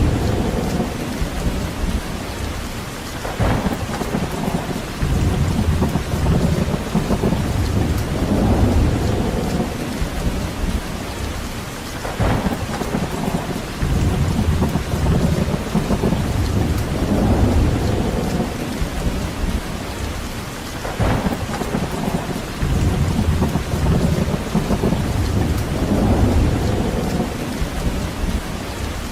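Steady rain, with a low rumble swelling and fading every four to five seconds, and a brief sharper crack three times, about nine seconds apart.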